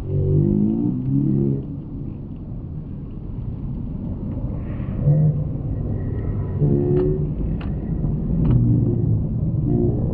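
Steady low engine rumble, with short wavering tones and a few sharp clicks over it.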